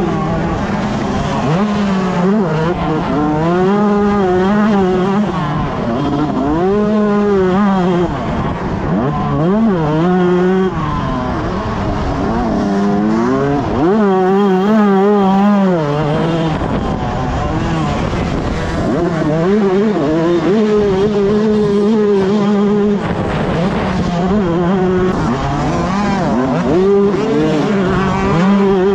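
125cc two-stroke motocross bike engine at racing pace, revving up and dropping back again and again as the throttle is worked, its pitch wavering quickly in places.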